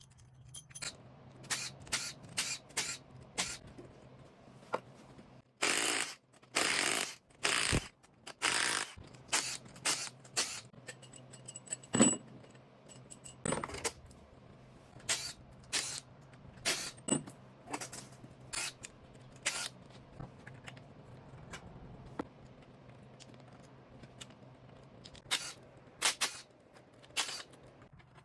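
Metal tools and engine parts clinking, knocking and scraping as a Chevy 5.3 LS V8 is worked on, with a few short hissing blasts a few seconds in, over a steady low hum.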